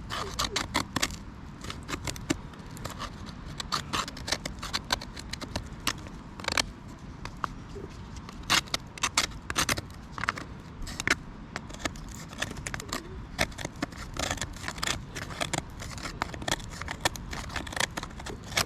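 Knife shaving wood into kindling: irregular scraping strokes and small sharp clicks as the blade cuts thin curls.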